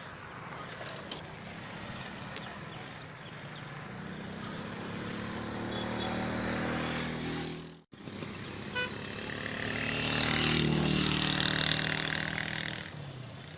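Motor vehicle engines passing close by. The first grows louder and is cut off abruptly about eight seconds in; a second, louder pass follows, its pitch dropping near the end.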